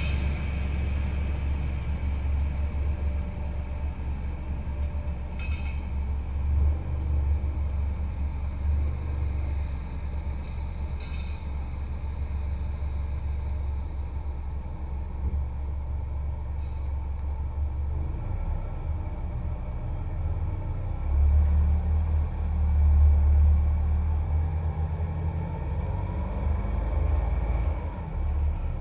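Low steady rumble of a vehicle, swelling louder about three quarters of the way through, with a faint rising tone near the end.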